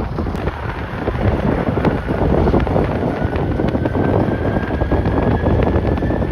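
Strong wind buffeting the microphone in gusts. From about halfway in, a faint high whine from a jet airliner's engines rises slowly in pitch.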